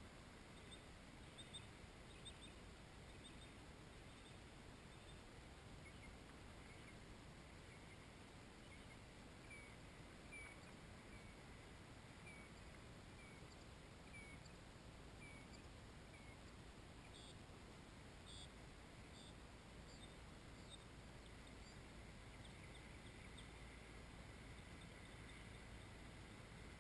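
Near silence: a low steady background hiss with faint bird chirps, a run of short calls through the middle and a cluster of higher chirps in the second half.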